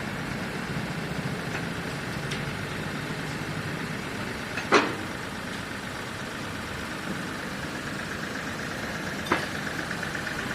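Mahindra TUV300's three-cylinder diesel engine idling steadily after a fresh oil and filter change. Two short sharp clicks cut through, the louder about five seconds in and another about four seconds later.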